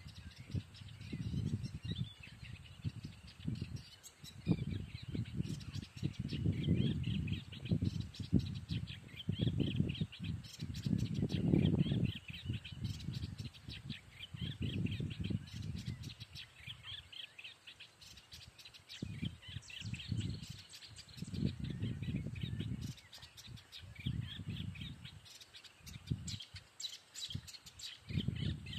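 Small birds chirping busily and continuously, with an irregular low rumble swelling and fading beneath them.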